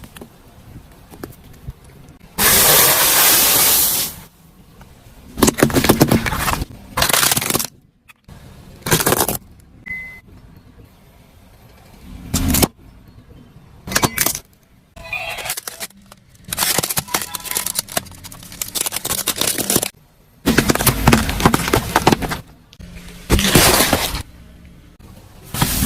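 Objects crunching and cracking as they are crushed under a car, in about eight separate bursts of a second or two each, the first one the longest.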